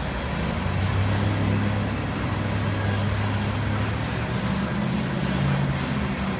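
Diesel locomotive engine running with a steady low drone, over a wash of rail and wheel noise.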